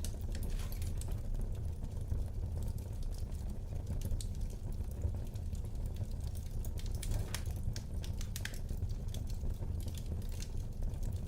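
Wood fire burning in a fireplace, with irregular crackles and pops over a steady low rumble.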